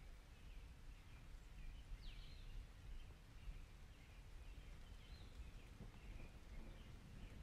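Faint, scattered bird chirps, a few short falling notes among them, over a low background rumble.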